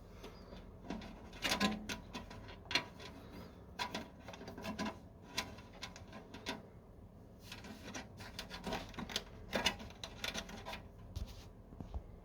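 Irregular clicks and short rustles of hands handling small hard parts, coming in scattered clusters over a low steady hum.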